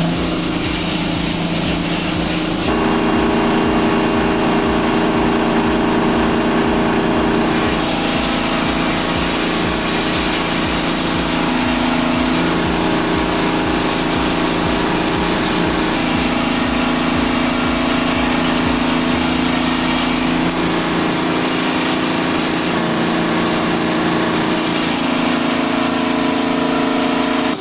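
Engine running steadily as it powers an old circle sawmill, a continuous mechanical drone whose pitch and tone shift a few times.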